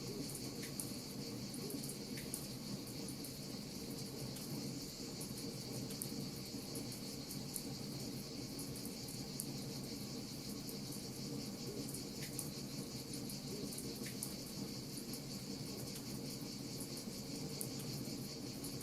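Wood fire crackling with frequent small, sharp pops over a steady high-pitched chirring and a low, even rumble.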